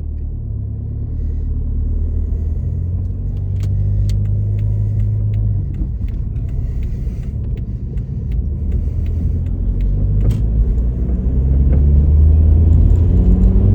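SEAT Leon FR being driven: steady low engine and road rumble, the engine note rising and growing louder over the last few seconds as the car accelerates, with a few light clicks.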